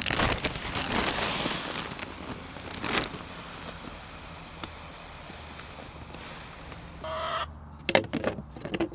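Backyard hens clucking and calling while being fed, with one drawn-out call about seven seconds in. A loud rush of noise fills the first couple of seconds, and a few sharp knocks come near the end.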